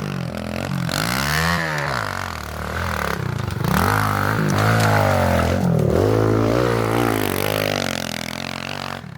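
Small pit bike engine revving up and down repeatedly as it is ridden, its pitch rising and falling several times, then dropping away near the end.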